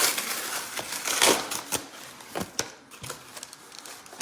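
Handling noise: irregular clicks and rustling, with a louder crinkling burst about a second in.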